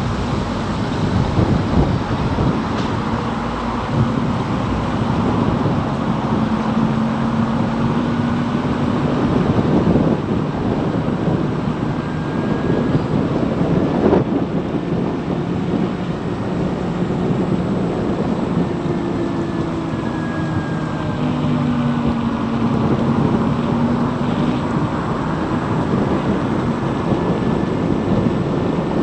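Wind and road noise on a moving Zero DSR electric motorcycle, a steady rush with no engine note. A few faint tones rise and fall in pitch, and there are two brief knocks partway through.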